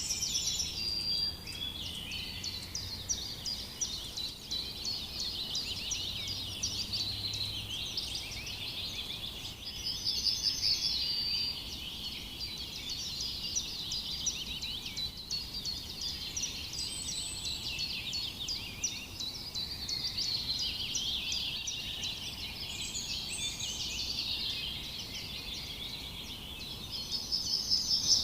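Many birds calling at once in a dense, continuous chorus of high, quick chirps, with a few louder songs standing out about ten seconds in and near the end.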